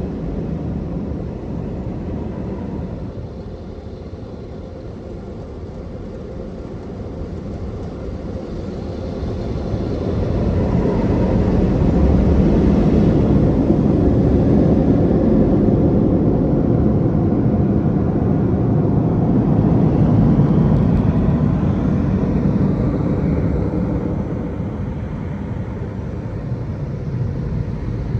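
Touch-free car wash dryers blowing with a steady rushing noise, growing louder about a third of the way in, holding, then easing off near the end.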